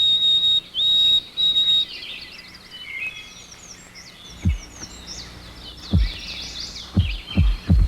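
Wild birds singing: several long, clear whistled notes at first, then a busy chorus of short chirps and trills. From about halfway through, low thumps join in and come faster and faster.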